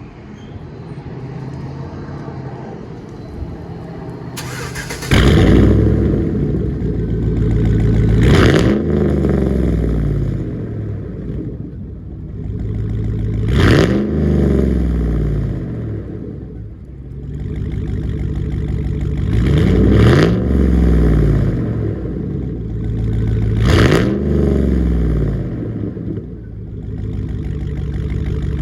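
2013 Chevy Tahoe PPV's 5.3-litre V8 cold-started: it catches suddenly about five seconds in and settles to a fast idle. It is then blipped four times, each rev falling back to idle.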